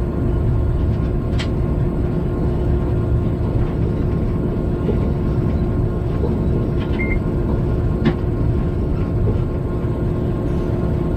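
Steady low rumble of a freight train running along the line, heard from inside the locomotive cab, with a constant hum and a couple of sharp clicks, one about a second in and one about eight seconds in.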